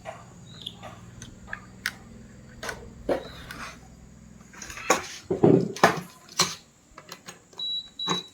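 Clatter of hard objects being handled: a string of separate knocks and clinks, busiest about five to six and a half seconds in, with a short high beep sounding twice near the end.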